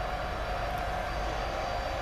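Electric locomotive pulling a container freight train: a steady mid-pitched whine over a low rumble.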